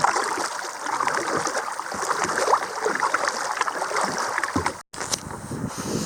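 Water splashing and gurgling as a kayak is paddled, with irregular paddle strokes dipping in. The sound cuts out for a split second about five seconds in.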